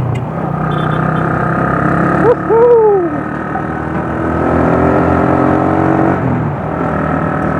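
Motorcycle engine running while under way, its pitch creeping up and then dropping about six seconds in as the revs fall. A short rising-and-falling voice-like sound comes about two and a half seconds in.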